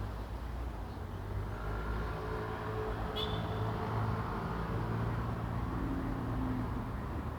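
A low, steady engine drone whose pitch drifts slowly, with one short high bird chirp about three seconds in.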